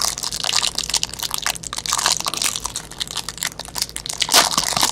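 Plastic wrapping and packaging crinkling, crunching and tearing in irregular crackles as a box of trading cards is opened.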